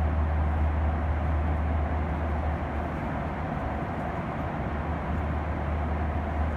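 Steady low rumble and rushing noise inside the cabin of a Boeing 737-900ER airliner, easing off slightly about two and a half seconds in.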